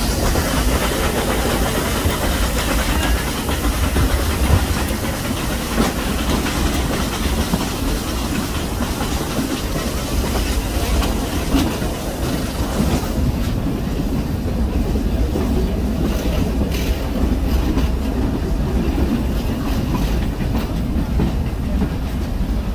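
Nilgiri Mountain Railway train climbing a steep grade: a steady rumble and clatter of the coaches' wheels on the track, heard from an open coach doorway. The sound turns a little duller about halfway through.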